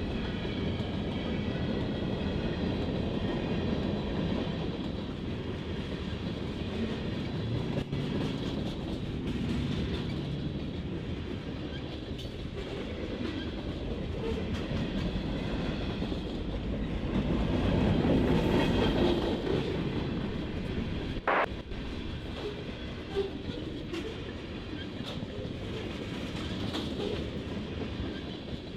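Freight train rolling past on the rails, its wheels and cars making a steady rolling noise that swells about two-thirds of the way in. A brief sharp click sounds shortly after the loudest part.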